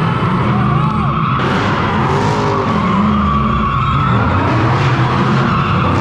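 Straight-piped V8 drift car engine revving up and down hard, with tyres squealing and skidding.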